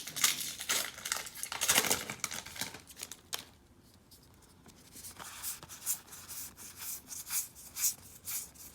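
Paper trading cards being handled: scratchy rustling and sliding strokes, a quiet spell of about a second and a half a little past the middle, then a run of short brushing strokes.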